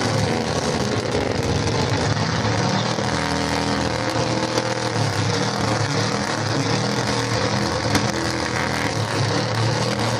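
Hot rod engine revving hard and loud, its pitch rising and falling, while flames shoot from its exhaust.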